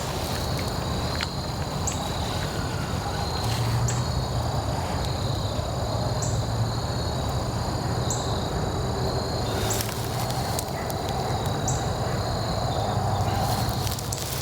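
Insects trilling steadily at two high pitches, the upper one restarting about every two seconds, over a low steady rumble.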